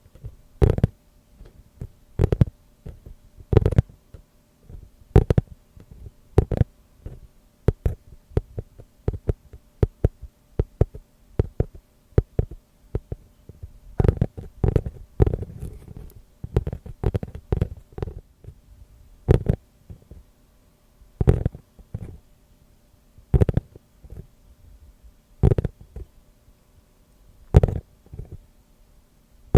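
Tapping on a trivet (pot stand): irregular soft knocks with a deep low end, roughly one every second, with a quicker flurry of taps around the middle.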